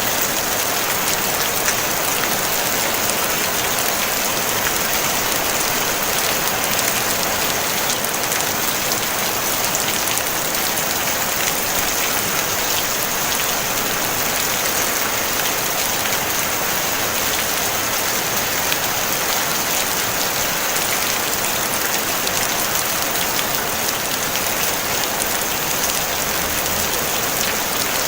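Steady rain falling on a tin roof: a dense, even patter of drops on metal, with no thunder.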